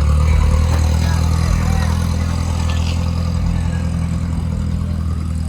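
Car engine idling steadily, a loud, even low running note with no revving.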